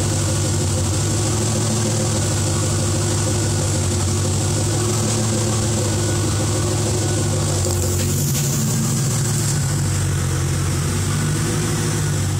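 Stock 2000 Chevrolet Camaro Z28's LS1 V8 idling steadily, with a brief hiss about eight seconds in.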